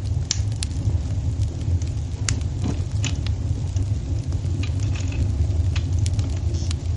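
Wood fire crackling in a fireplace: irregular sharp pops and snaps, a few per second, over a steady low rumble.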